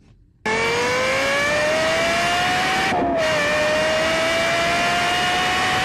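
Sports car exhaust under hard acceleration, starting abruptly about half a second in: the engine note climbs steadily in pitch, dips briefly at an upshift about halfway through, then climbs again.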